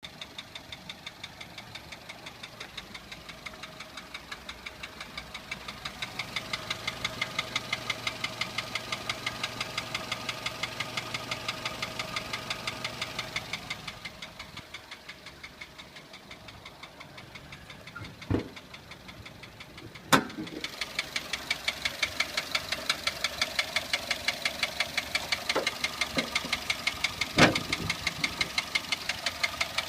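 Toyota 1SZ-FE 1.0-litre four-cylinder engine running with a steady, even knock of several strokes a second that grows louder for a stretch, eases off, then comes back, with a few sharper single clicks in the quiet part. The owner attributes the knock to a seized piston pin letting the piston skirt slap the cylinder wall, the bearings and valve clearances having checked out fine.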